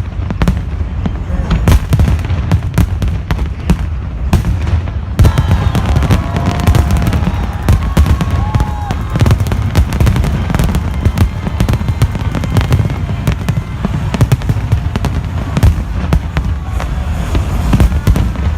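Fireworks display in a continuous barrage: rapid bangs and crackling over a steady rumble of deep booms.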